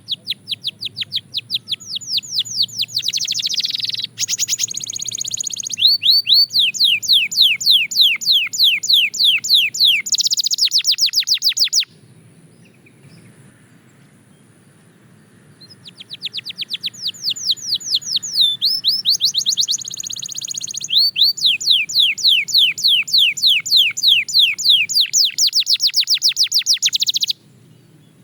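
Belgian canary singing fast trills of rapidly repeated high notes. Two long bouts of song are separated by a pause of about four seconds, and the song cuts off abruptly near the end.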